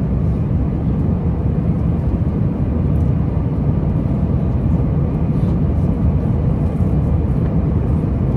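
Airliner cabin noise in cruise flight: a steady low rumble of engine and airflow noise.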